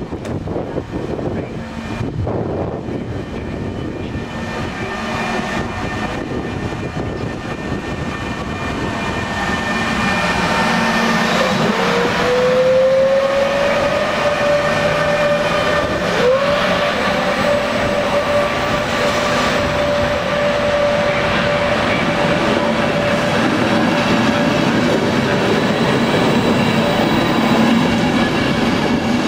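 An FS E.403 electric locomotive pulls an Intercity train away, and the wheels of its coaches rumble past on the rails, getting louder over the first ten seconds. A whine glides up in pitch about twelve seconds in, and again about sixteen seconds in, then holds steady.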